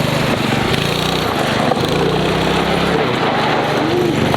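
Small engine of a homemade go-kart running, its note rising and falling in pitch as the kart is driven.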